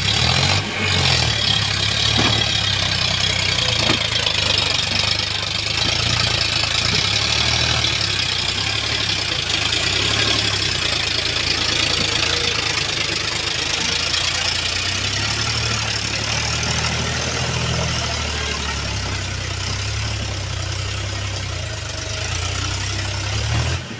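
Heavy diesel engine running steadily at low revs, a low engine note with a constant hiss over it.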